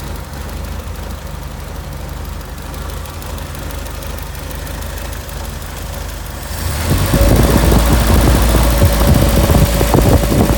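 1968 Triumph Herald's four-cylinder engine idling, with the bonnet chattering. About two-thirds of the way in it gets louder, with a busy rattling clatter over the idle.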